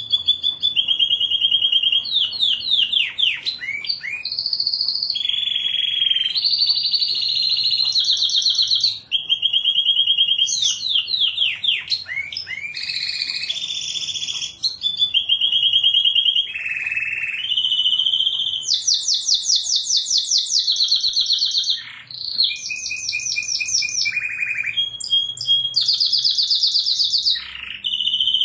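Domestic canary singing a continuous song of fast trills and rolls. Each phrase is a run of rapid identical notes, and the bird switches between higher and lower phrases every second or two with hardly a pause.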